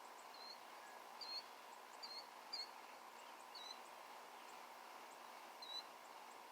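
Small birds chirping: about six short, high chirps scattered irregularly through a few seconds, over a faint steady hum.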